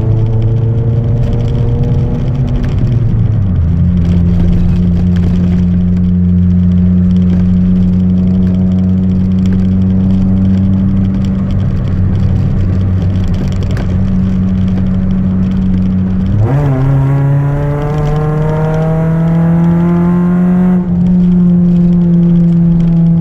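Chevrolet Celta 1.0 engine's exhaust drone through a 4x1 header and an open two-inch exhaust with no mufflers, running on ethanol. The revs drop a step a few seconds in and hold steady. About 16 s in they jump up sharply and climb under acceleration, then ease off slightly near the end.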